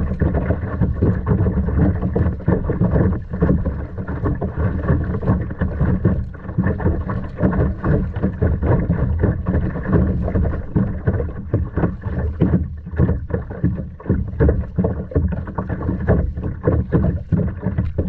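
Water sloshing and splashing around a kayak on the sea, with wind buffeting the microphone. The sound is an uneven rush, heaviest in the low end.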